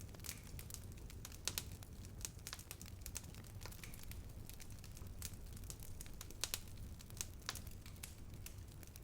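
Wood fire burning: a low steady rumble of flames with irregular sharp crackles and pops from the burning wood, a few louder pops about a second and a half in and again about six and a half seconds in.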